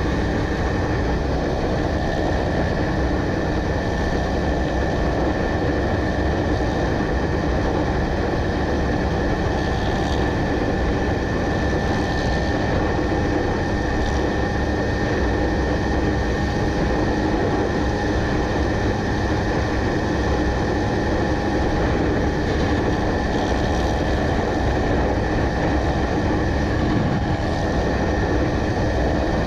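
Motorcycle under way: a steady engine hum with wind rumble on the microphone, holding an even speed with no revving.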